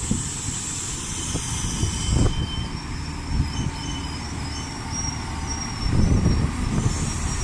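Iarnród Éireann diesel multiple-unit train running through the station close by: a steady rumble of wheels on rail, with a thin high whine coming and going from about two seconds in.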